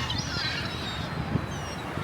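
A flock of gulls calling, many short overlapping cries at once, over a steady low rumble.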